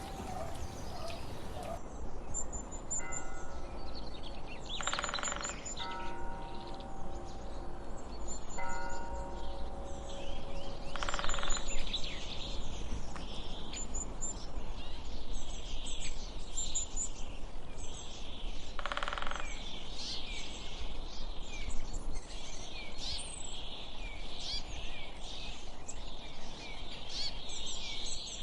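Wild birds chirping and whistling, many short calls overlapping, over a steady low outdoor rumble. In the first part, some clear held whistle notes stand out.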